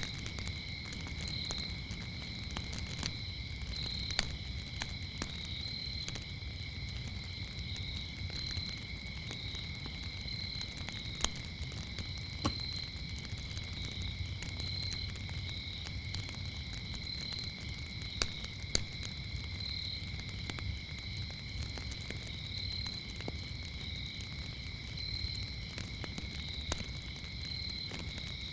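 Crickets chirring steadily at a high pitch, with a higher pulsing chirp coming in every second or so, over the low rumble of a wood fire. The fire gives a handful of sharp pops and crackles.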